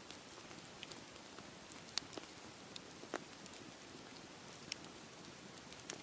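Campfire crackling: a few sharp, scattered pops and snaps, the loudest about two seconds in, over a steady low hiss.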